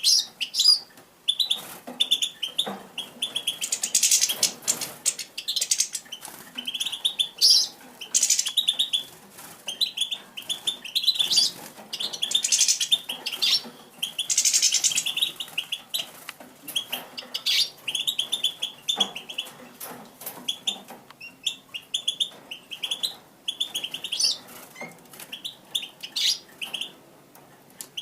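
Small songbirds giving many short, repeated chirping calls, with brief wing flutters and small sharp clicks in between.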